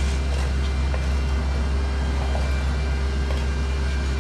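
Diesel engines of heavy paving equipment running steadily: a deep, unbroken drone with a few faint steady tones over it.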